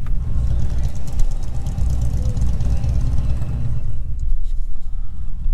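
Pickup truck driving, a steady low rumble of engine and road noise with a rush of hiss that swells in the middle and eases off near the end.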